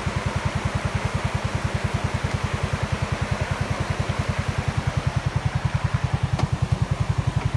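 Small vehicle engine idling with an even, rapid throb, over the steady rush of a creek in flood.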